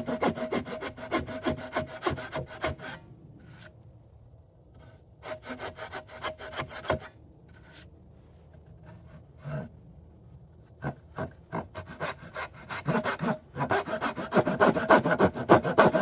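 A hand tool rasping back and forth on wood in quick strokes, about five a second, cutting a small starter groove across end grain for a plow plane blade. The strokes break off about three seconds in, come only in short scattered runs and single scrapes for a while, then pick up fast again near the end.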